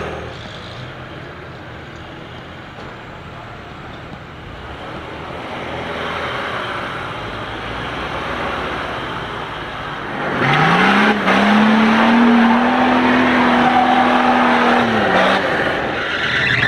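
Off-road 4x4's engine running on the trail. About ten seconds in it revs up quickly and holds at high revs for about four seconds, then drops back.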